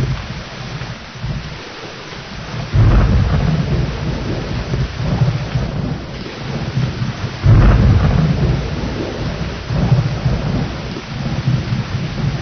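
Thunderstorm: steady heavy rain with rolling thunder, two loud claps about three seconds and seven and a half seconds in, each rumbling on.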